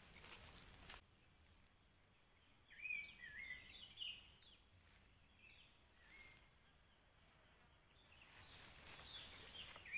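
Faint outdoor ambience: a bird gives a few short, wavy whistled chirps about three and four seconds in, and once more a couple of seconds later, over a faint steady high insect whine. Soft rustling of a bag in the first second.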